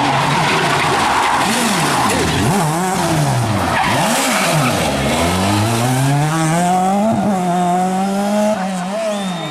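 Rally car engine revving hard, its pitch falling and rising several times as the driver lifts off and gets back on the throttle, with tyres skidding. From about halfway it pulls away in one long rising run of revs.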